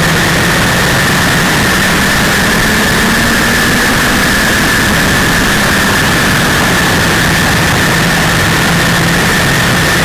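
1932 Ford Super Modified's 300 cubic-inch straight-six engine running hard at racing speed, heard from on board the car: loud and steady, its pitch rising and falling slightly, with a constant high whine over it.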